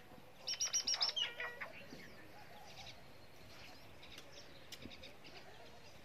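Wild birds calling: a rapid run of about six loud, sharp, high calls about half a second in, then a few quicker notes, with faint chirps scattered through the rest.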